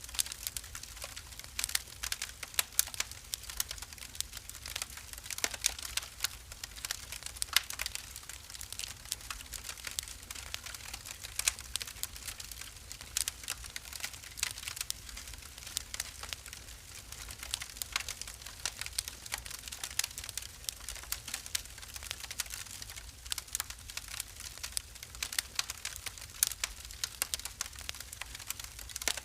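Wood fire crackling in a fireplace: a dense, irregular run of sharp pops and snaps over a faint low rumble.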